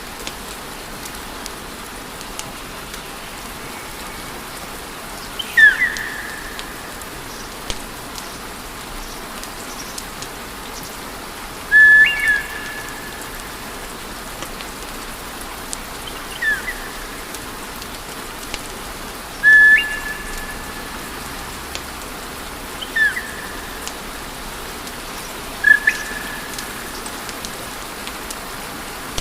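Steady hiss of a wood fire with faint scattered crackles. Six short whistled notes sound across it, each a quick falling glide that settles on a briefly held tone.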